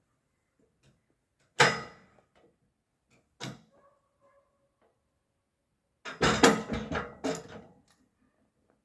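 Sharp knocks with a short ringing tail: one loud knock about a second and a half in, a lighter one about two seconds later, then a rattling run of quick knocks near the end.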